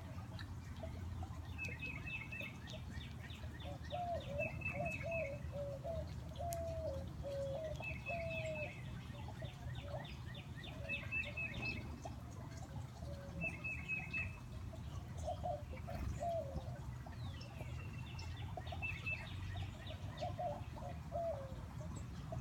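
Backyard songbirds singing: a titmouse repeats a short, high phrase of quick notes every second or two, while another bird gives lower, wavering calls in between.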